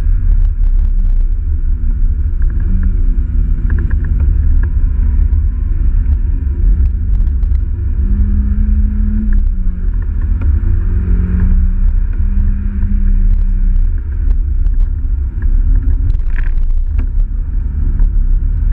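Mazda MX-5 NA's 1.6-litre four-cylinder engine driven hard, heard from inside the open cabin over a heavy low rumble of road and wind noise. The engine note climbs, holds and drops several times as the revs rise and the driver changes gear.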